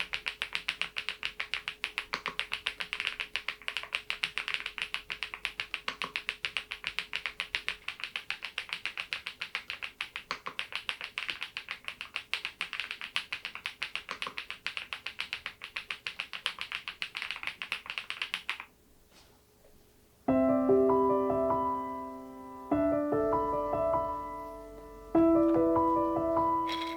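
Fast, continuous typing on a Geekstar GKG87R tenkeyless mechanical keyboard fitted with Balhae Blue tactile switches, many keystrokes a second. The typing stops about 19 seconds in; after a short pause, piano music starts, with a new chord every two or three seconds.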